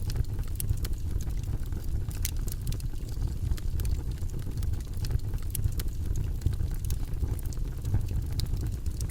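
Wood campfire crackling: scattered sharp pops and snaps, several a second, over a steady low rumble.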